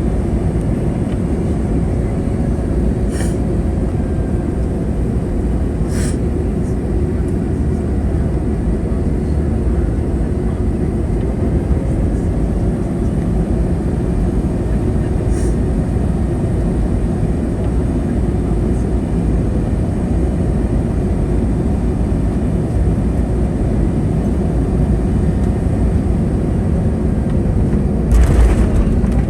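Steady cabin rumble and airflow noise inside an Airbus A321neo airliner during its landing sequence, with a few faint clicks and a sudden louder rush near the end.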